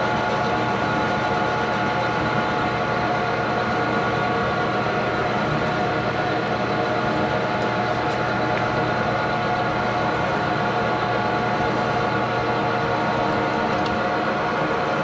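Metal lathe running steadily with its gear and motor whine while a part held in a four-jaw chuck is faced and turned.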